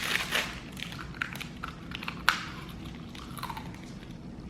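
A fortune cookie being broken open and crunched: a few short crisp snaps and crackles, the sharpest about two seconds in.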